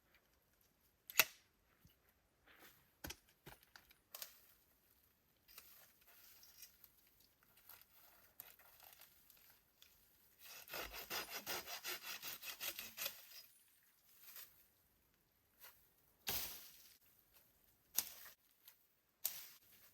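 Hand saw cutting wood: a quick run of strokes, about four to five a second, lasting about three seconds, with scattered knocks and snaps of handled wood before and after.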